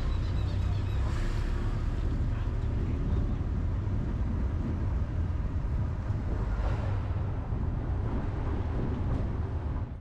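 Wind buffeting the microphone in a steady, fluttering low rumble, over an even outdoor hiss of surf and traffic.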